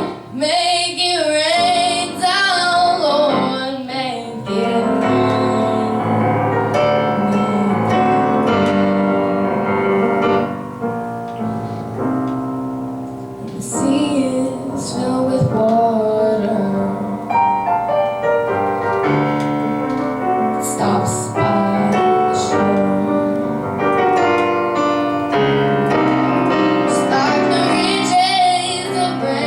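A young girl singing a slow ballad with piano accompaniment, her voice holding long notes with vibrato and coming in loudest near the start, midway and near the end.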